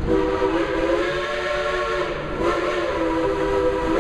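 Steam locomotive's chime whistle blowing two long blasts of several notes together, with a short break between them, over steam hiss.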